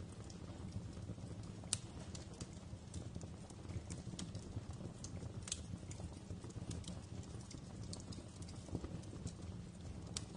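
Wood fire crackling in a fireplace: irregular sharp pops and snaps over a steady low rumble of the burning fire, with a louder pop a couple of seconds in and another about halfway.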